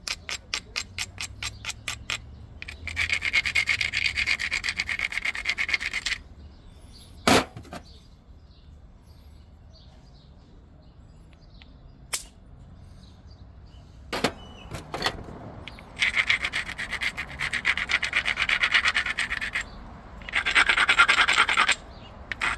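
Obsidian point being knapped: the edge is abraded in several spells of gritty scraping, with a few single sharp clicks between. It opens with a quick run of about six light taps a second.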